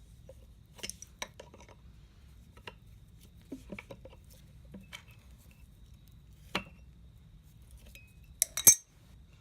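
Pliers clicking and clinking against the flywheel bolt of a small Reo engine as it is turned on by hand: scattered short metallic clinks, the loudest a single click past the middle and a quick cluster near the end.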